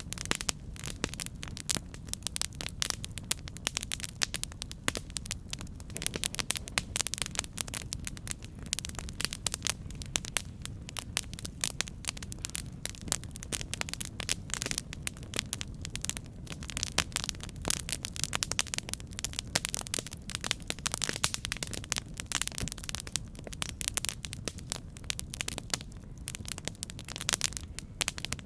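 Campfire burning, with dense, irregular crackles and pops of wood over a steady low rush of flame.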